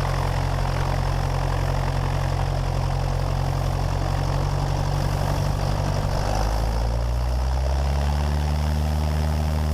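Cessna 172 Skyhawk's piston engine and propeller running steadily, then rising in pitch from about six seconds in as the throttle is opened to full power for the takeoff roll.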